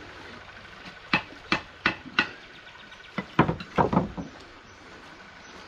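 Sharp knocks from masonry work on a fireplace: four evenly spaced strikes about a third of a second apart, then a quicker cluster of heavier knocks about three seconds in.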